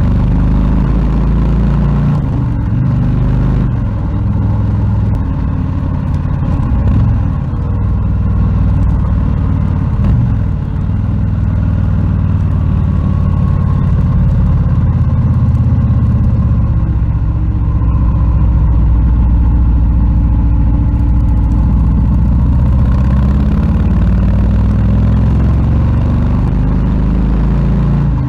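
Harley-Davidson Low Rider S's Milwaukee-Eight 117 V-twin engine running loud and deep. Its pitch rises and falls a few times in the first half and holds steadier from the middle on.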